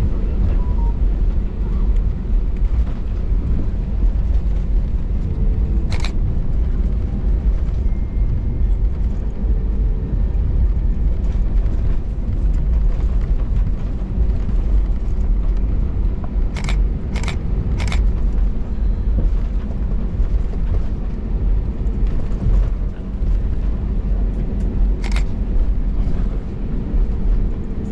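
Cabin noise of an Airbus A320neo taxiing after landing: the engines at low taxi power give a steady low rumble with faint steady tones. A few short sharp clicks come through, three of them close together a little past the middle.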